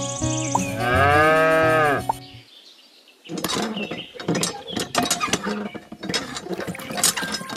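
A single long cow moo, rising and then falling in pitch, follows the tail of background music. After a brief pause comes a stretch of irregular clicking and rattling as the handle of a miniature hand water pump is worked.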